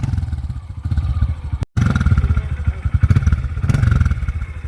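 Dirt bike engine running with a rapid low pulse, under load on an uphill trail climb. The audio drops out for an instant about a third of the way in.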